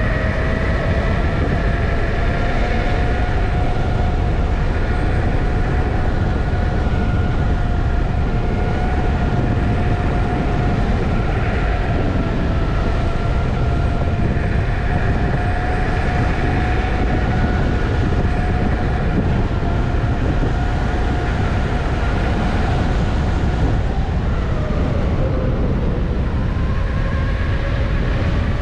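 Electric unicycle hub motor whining steadily at riding speed, its pitch dipping about 25 seconds in as the wheel slows, over heavy wind noise on the microphone.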